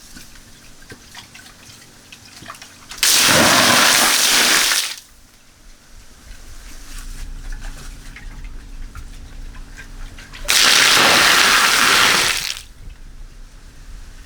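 Water gushing in two loud rushes of about two seconds each, one a few seconds in and another past the middle, each starting suddenly and then dying away.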